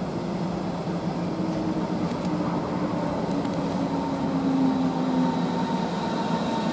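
Berlin S-Bahn electric train running along the platform with a rolling rumble and a motor whine that falls slowly in pitch as it slows into the station, growing a little louder toward the end.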